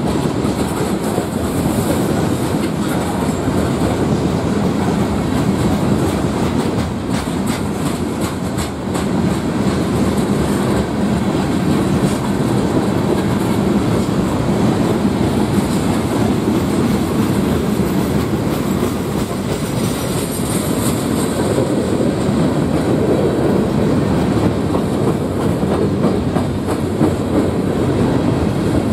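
Freight train cars rolling past on the rails: a steady rumble with scattered clicks of wheels over the track.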